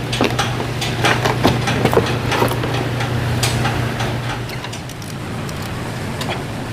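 Hand tools clinking and knocking on metal over a steady low machine hum; the hum cuts off about four and a half seconds in.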